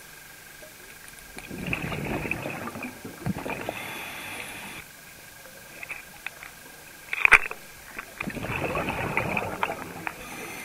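Scuba diver breathing through a regulator underwater: two breaths about six seconds apart, each a long bubbling exhalation followed by a shorter hiss. A sharp click about seven seconds in.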